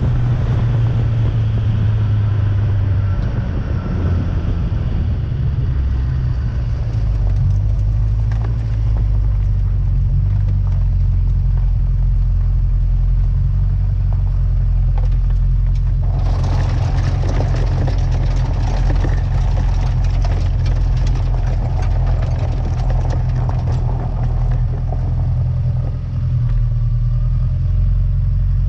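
Turbocharged 1992 Mazda Miata's four-cylinder engine running steadily at low revs. About halfway through, a rougher rushing noise with crackles joins it.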